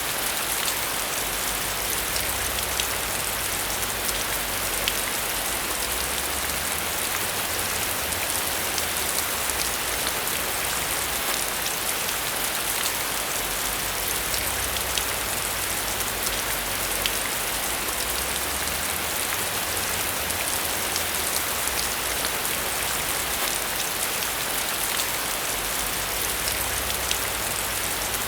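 Steady rainfall with many individual drops pattering on a surface, an even hiss throughout, with a faint low rumble that swells and eases.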